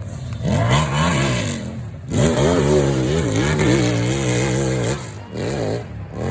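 Motorcycle engine revving, its pitch rising and falling again and again as the throttle is blipped, with short drops near two seconds in and again about five seconds in.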